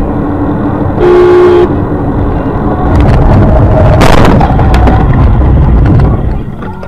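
A car horn sounds once, briefly, about a second in. A few seconds later comes loud rumbling road noise with a sharp crack about four seconds in.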